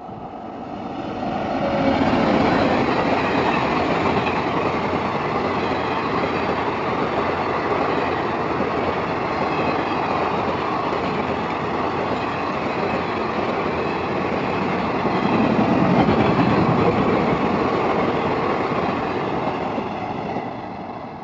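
Passenger express train passing at speed, its coaches' wheels running over the rails; the sound builds up over about two seconds, stays loud, swells again near the end and then fades away.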